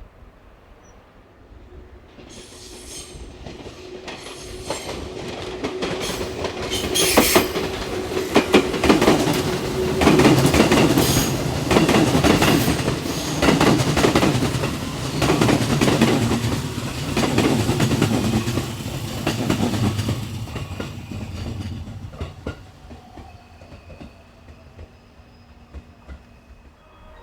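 Electric multiple-unit train running past on the station tracks, its wheels clacking over rail joints. It builds up over several seconds, stays loud for about a dozen seconds, then fades away.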